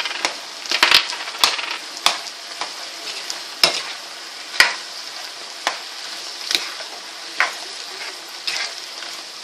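Chicken and vegetables sizzling steadily in a hot pan on high heat while being stirred, with a sharp scrape or clack of the utensil against the pan about once a second.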